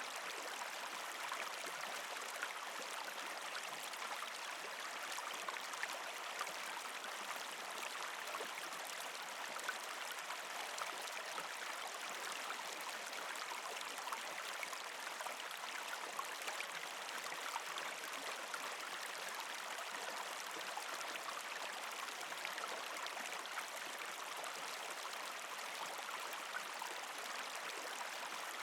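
A partially frozen creek flowing over rocks, a steady rush of water with a scatter of small splashes and trickles.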